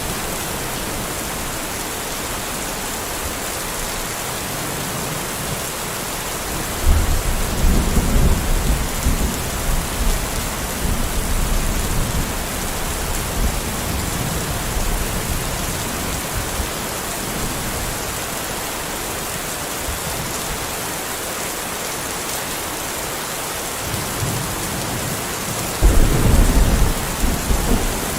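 Steady rain falling, with two rolls of thunder: a low rumble starting about seven seconds in and dying away over several seconds, and another breaking near the end.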